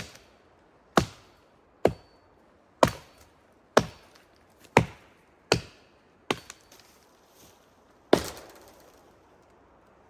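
Wood being chopped with an axe: about nine sharp strikes at roughly one a second, with a longer pause before the last blow.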